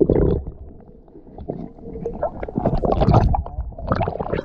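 Water sloshing and gurgling close to the microphone, with irregular small knocks and splashes. There is a loud burst at the start, a quieter spell about a second in, and it grows busier and louder again in the second half.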